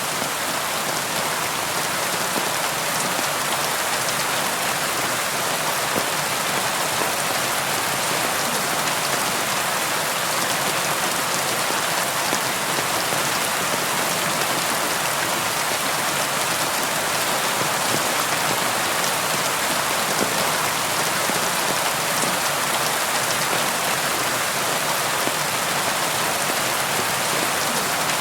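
Steady rain falling and pattering on a surface, a dense even hiss of many drops with no thunder.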